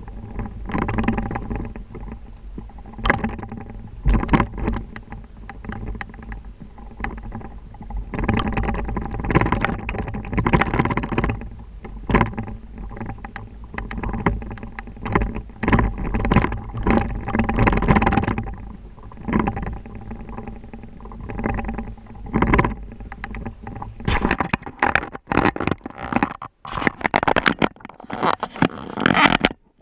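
Wind rumbling on the microphone during a ride, with rattles and knocks throughout that come thick and fast near the end.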